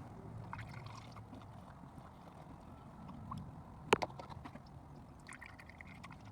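Quiet handling noises with one sharp click about four seconds in.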